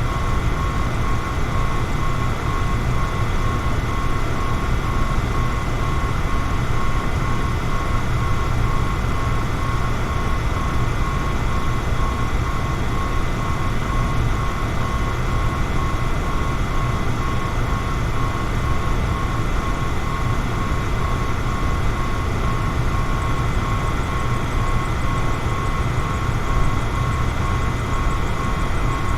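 Electric fan running steadily: an even rush of air over a low hum, with a thin high whine that pulses evenly.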